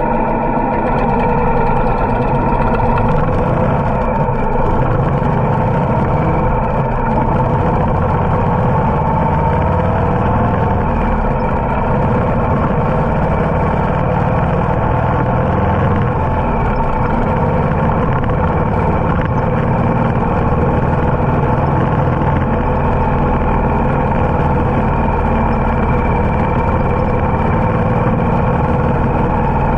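Harley-Davidson motorcycle engine running at a steady cruising speed, its pitch drifting a little, with a constant rumble of wind and road noise.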